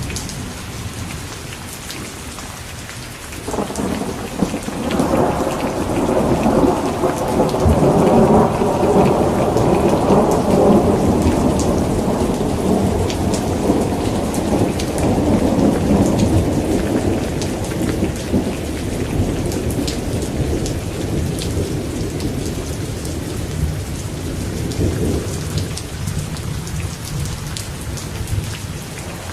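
Steady rain falling, with a rolling rumble of thunder that swells up about three and a half seconds in and slowly dies away over the next twenty seconds or so.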